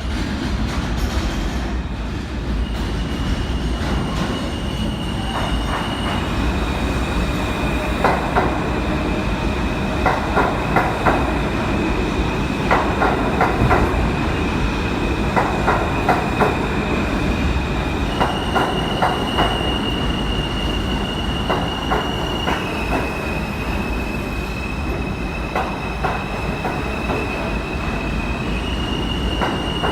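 New York City subway train running, its wheels clicking over rail joints in quick clusters every couple of seconds under a steady rumble. Over it runs a steady high-pitched squeal that jumps to a new pitch several times.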